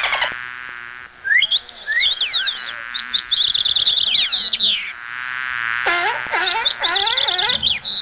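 A run of animal calls: quick high chirps and a high buzzing trill, then from about six seconds in a series of repeated pitched calls that rise and fall.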